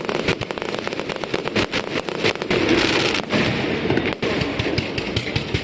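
Aerial fireworks going off in a rapid, dense barrage, a near-continuous crackle of many small bursts with heavier booms among them.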